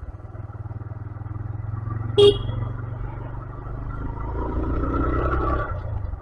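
A bus's engine drones low and steadily as it approaches, swelling louder from about four seconds in as it passes. A single short horn toot sounds about two seconds in.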